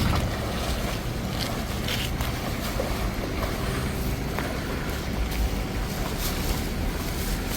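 Steady low rumbling noise, like wind buffeting the microphone outdoors, with a few faint ticks.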